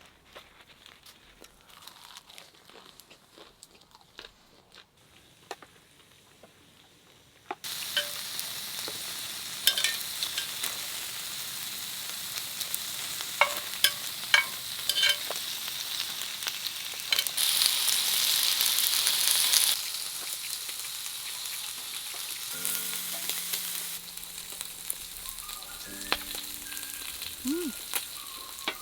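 Beef sizzling as it cooks, with scattered pops. The sizzle starts abruptly about eight seconds in after a near-quiet stretch, and is loudest for a couple of seconds shortly before twenty seconds in.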